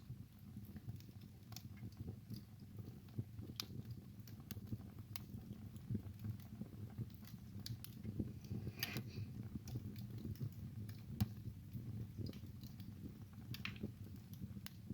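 Wood fire burning in a fireplace: a steady low rumble with scattered sharp crackles and pops, and a short hissing burst about nine seconds in.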